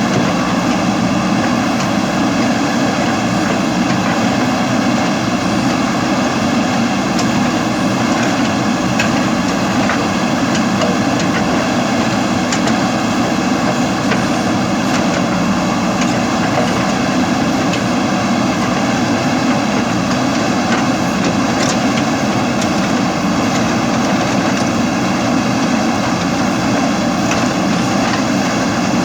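Steady, unchanging whine of a camera drone's propellers hovering, with several high steady tones over a dense hum.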